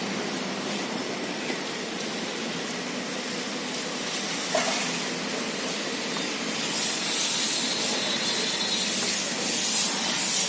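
Steady hissing noise that gets brighter and a little louder about six and a half seconds in.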